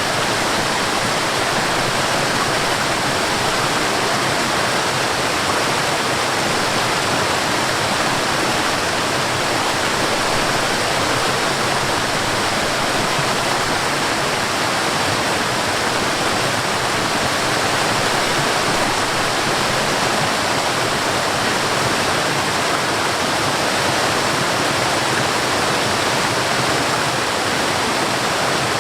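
Steady, unbroken rushing of a stream and a small waterfall, with water lapping close by.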